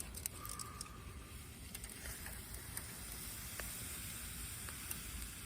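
A steady sizzling hiss with many small scattered crackles, as of food cooking on a camp fire.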